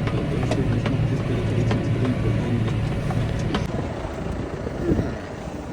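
Tractor engine running with a steady low drone that eases off about four seconds in.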